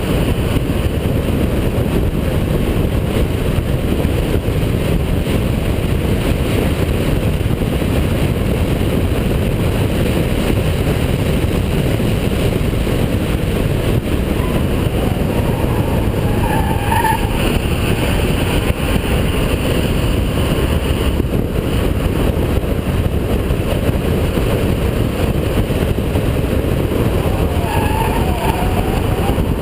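Holden VP Commodore's 3.8-litre V6 engine running hard at circuit speed, a steady loud drone mixed with road and wind noise. Two short wavering squeals come through, one about halfway and one near the end.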